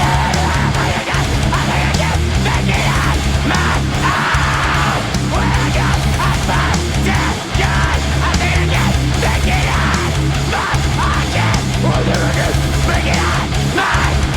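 Heavy rock music from a band: loud distorted electric guitars, playing steadily with no break.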